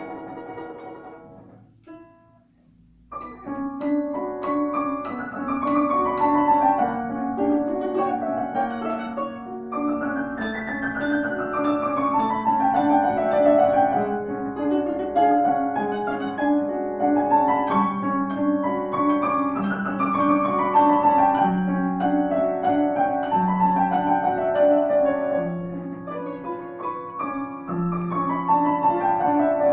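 Instrumental music, most likely solo piano: repeated descending arpeggio runs over held low notes, with a brief pause about two seconds in before the playing resumes.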